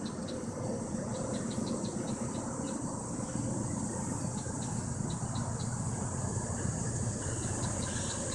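Amtrak P42DC diesel locomotive leading a passenger train as it approaches, a low engine rumble growing gradually louder. Insects chirp in short high ticks throughout.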